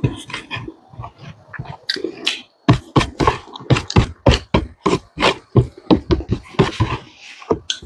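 Close-miked chewing with wet lip-smacking as a mouthful of smoked pork is eaten. The smacks fall into a steady rhythm of about three a second from about three seconds in.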